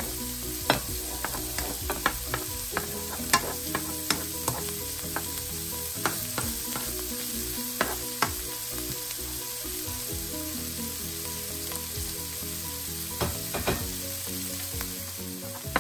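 Chopped onion and garlic sizzling in oil in a nonstick pan, with a steady hiss and frequent sharp clicks and scrapes of a plastic slotted spoon stirring against the pan; the clicks thin out in the middle and pick up again near the end.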